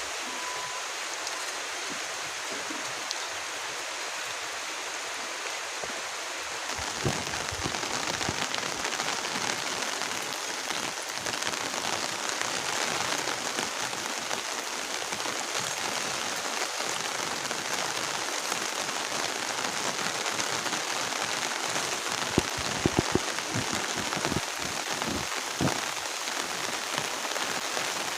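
Heavy rain falling steadily, growing louder about seven seconds in, with a few sharp taps near the end.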